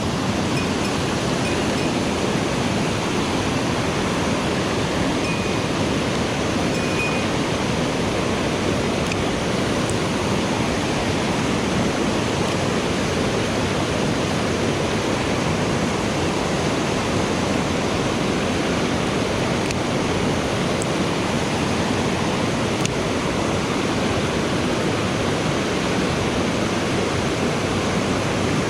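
Mountain stream water rushing steadily, an even, unbroken roar of flowing water.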